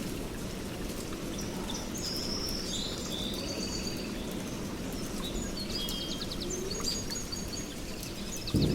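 Songbirds chirping and giving quick trills over a steady low rumble of background noise; near the end a louder rumble of thunder breaks in.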